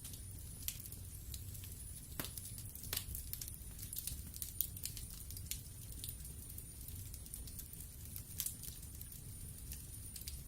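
Wood fire in a fireplace crackling: frequent small snaps and pops, with two sharper pops about two and three seconds in, over a low steady rumble.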